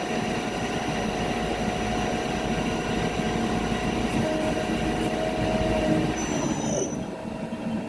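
CNC lathe running as it turns a part: a steady machine noise with several steady tones. Near the end comes a brief high wavering squeal, and the sound eases a little.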